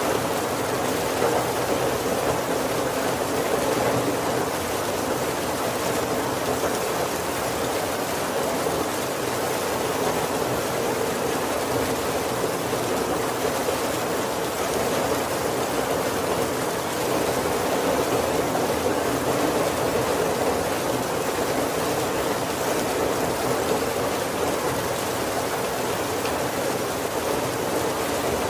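Heavy rain falling on the roof of a wooden carriage, heard from inside: a steady, even wash of rain with no breaks.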